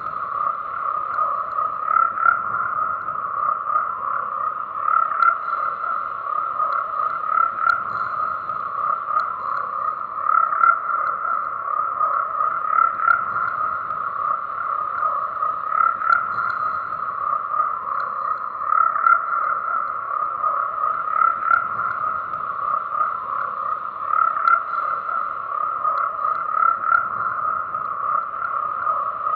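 A chorus of many frogs croaking continuously in a dense, steady mass, swelling slightly every two to three seconds.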